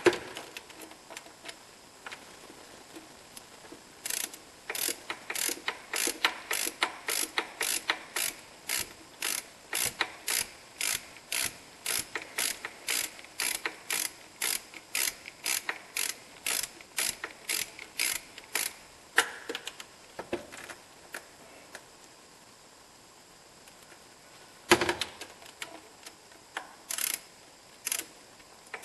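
Hand ratchet wrench working a fastener, clicking in a steady rhythm of about two strokes a second for some fifteen seconds, then a pause and a few more clicks with a knock near the end.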